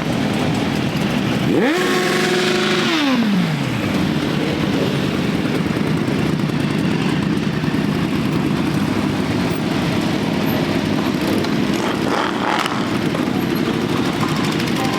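Motorcycle engines running together in a steady rumble. About two seconds in, one engine is revved sharply up and back down.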